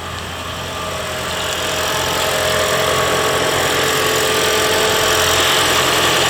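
Lexus CT200h's 2ZR-FXE 1.8-litre four-cylinder petrol engine running, growing louder over about the first two seconds and then holding steady.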